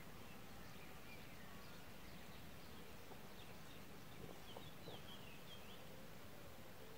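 Faint, scattered bird chirps over a quiet, steady outdoor background hiss, with a couple of soft clicks around the middle.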